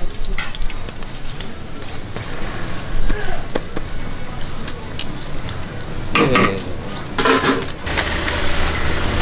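Hotteok (Korean filled pancakes) sizzling in oil on a flat griddle, with sharp metal clicks and scrapes from the tongs and press working on the griddle.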